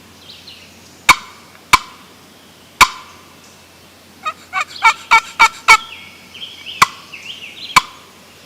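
Old scratch box turkey call played by hand: short sharp single notes, a quick run of about seven rising notes about four seconds in, then two more single notes.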